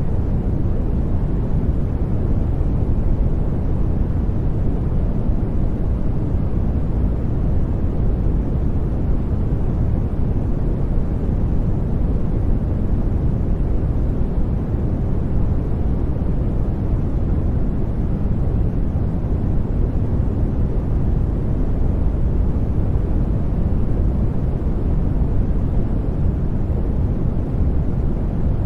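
Brown noise: a steady, deep hiss, loudest in the low end and thinning out toward the highs.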